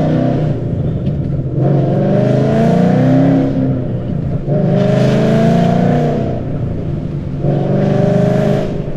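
2013 Ford Mustang GT's 5.0 V8 through long-tube headers, a high-flow X-pipe and Roush mufflers, pulling hard through the gears of its manual gearbox. The exhaust note rises in pitch three times, dipping briefly between pulls as the gears change.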